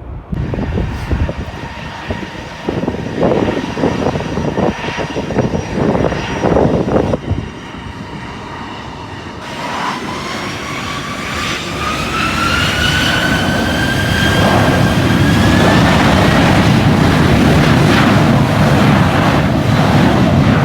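Jet airliner's engines spooling up for takeoff: a whine that rises steadily in pitch from about halfway through, with the engine noise growing louder and holding loud. Before that, gusty wind buffets the microphone.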